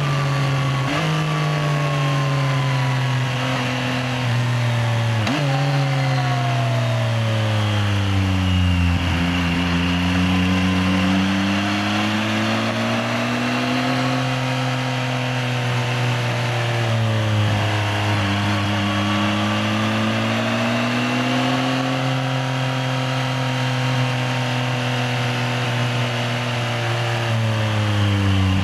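Yamaha XSR900's inline three-cylinder engine on the move, revs easing down with two sudden jumps up in the first few seconds, as with downshifts while slowing. After that the revs rise and fall gently twice under light throttle.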